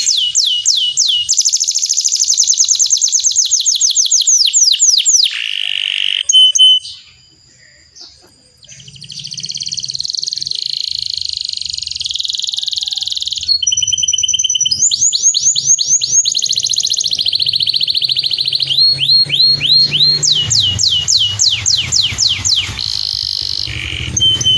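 Domestic canary singing a long rolling song: fast trills of repeated high, sweeping notes, with a short pause a third of the way through.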